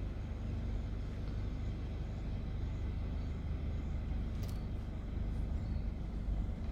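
Car moving slowly: a steady low engine and road rumble, with a faint click about four seconds in.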